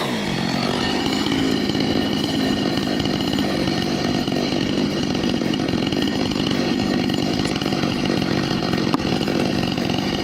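Chainsaw running steadily at a constant speed, cutting wood.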